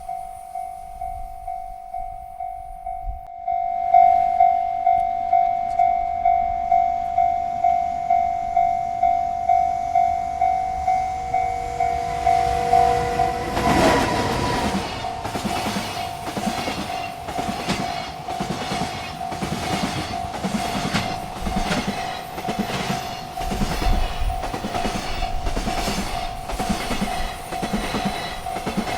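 Railroad crossing bell ringing steadily, about two strokes a second, getting louder about four seconds in. About halfway through a freight train arrives with a sudden rush of noise. Its wagons then clatter past in a steady rhythm of wheels over rail joints while the bell keeps ringing.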